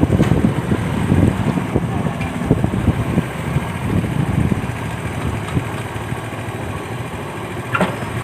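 Vehicle engine running on the move, under gusty wind rumbling across the microphone.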